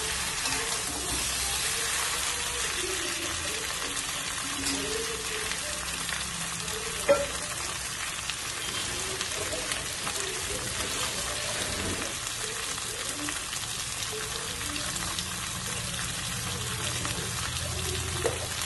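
Hilsa fish head and taro corms sizzling steadily in hot oil in a metal karai (wok) while they are sautéed with spices, with a spatula stirring at first. A single sharp knock comes about seven seconds in.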